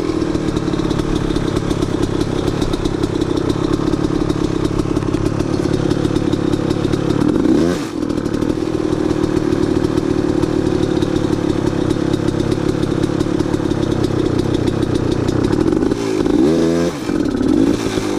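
Off-road dirt bike engine running hard under steady throttle, with a brief drop in revs and pickup again just before 8 s and uneven blips of throttle near the end.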